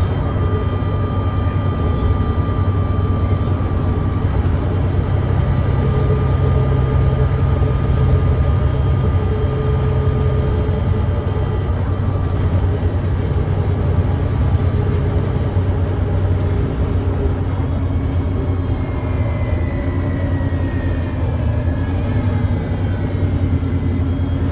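Volvo D9B 9.3-litre diesel engine of a Volvo B9TL double-decker bus running steadily under way, driving through a ZF Ecolife six-speed automatic gearbox, with the thrash of an exhaust leak.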